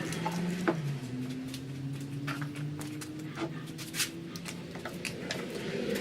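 Scattered clicks and light knocks of hand work on a small-block Chevy 350 engine, over a steady low hum that drifts slightly in pitch.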